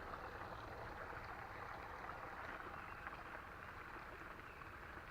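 Faint, steady rush of a small creek's flowing water.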